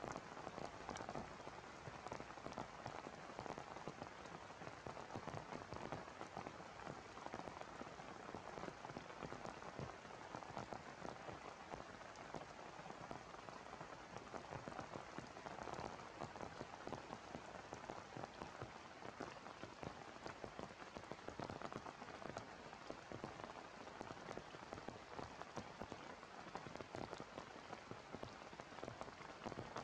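Heavy rain falling steadily, a dense patter of individual drops.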